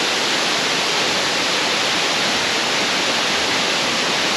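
Millaa Millaa Falls, a waterfall, giving a steady, unbroken rush of falling water.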